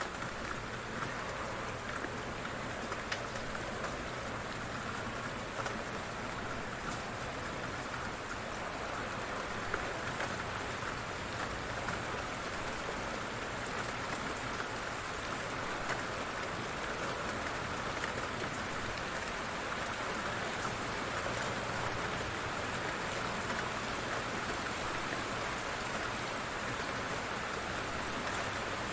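Light rain falling steadily, with scattered drops ticking on surfaces.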